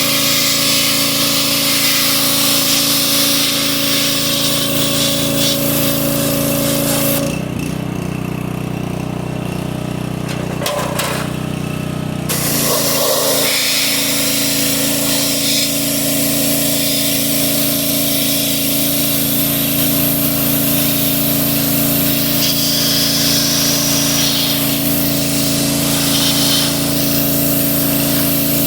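Pressure washer running steadily with the hiss of its spray jet. The spray stops for about five seconds, starting around seven seconds in, while the washer's motor keeps running, then starts again.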